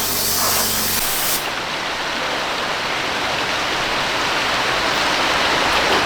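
Water spraying with a hiss over a low steady motor hum. The hum stops about a second in, and the spray gives way to steady splashing, running water.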